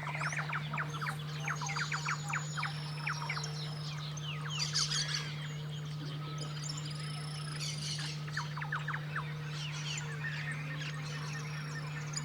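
Several wild birds calling at once, a dense run of quick downward-sweeping chirps mixed with higher thin whistles, thinning out in the second half, over a steady low hum.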